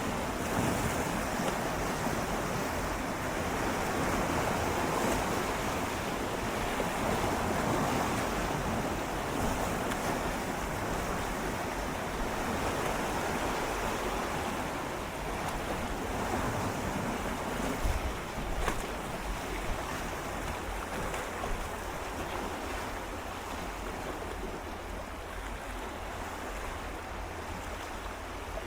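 Gentle sea waves swirling and lapping against shoreline rocks, a continuous wash that swells and ebbs, with a few sharp splashes about two-thirds of the way through and a quieter trickle toward the end. Some wind noise on the microphone.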